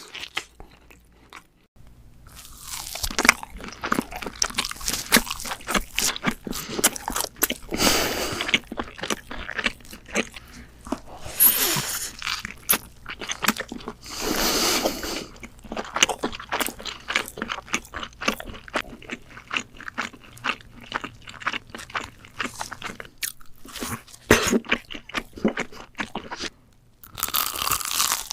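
Close-miked crunching as a person bites into and chews crisp food, with a dense run of irregular crackly crunches that starts about two seconds in and briefly stops near the end.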